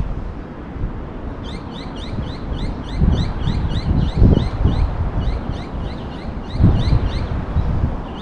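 A bird calling in a fast, steady run of short high chirps, several a second, starting about a second and a half in. Gusts of wind buffet the microphone throughout and are the loudest sound.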